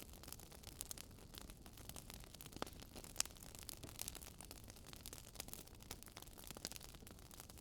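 Wood fire crackling faintly, with irregular sharp pops and ticks over a soft hiss; one pop stands out about three seconds in.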